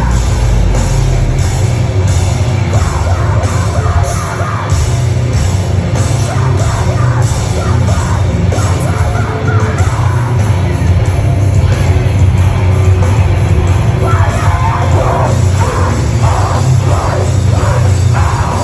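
Heavy rock band playing live at high volume: a dense, distorted low end with cymbal hits about three times a second and shouted vocals. The music stops right at the end.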